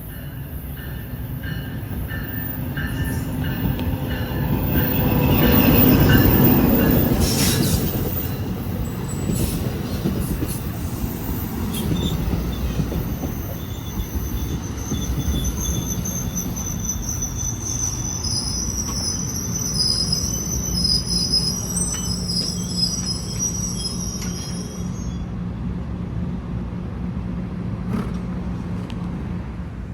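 A train passing, loudest about six seconds in, followed by high-pitched wheel squeal from the railcars that stops a few seconds before the end, with a steady low hum underneath late on.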